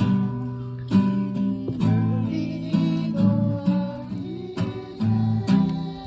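Acoustic guitar playing strummed chords, a fresh strum about every second, with a few notes sliding in pitch between them.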